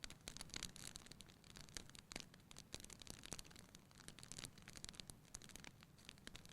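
Wood fire crackling in a fireplace: a quiet, dense, irregular run of small pops and snaps over a faint low rumble.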